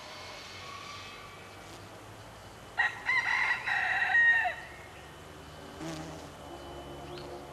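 One loud, drawn-out bird call about three seconds in, lasting about a second and a half, over a faint steady background.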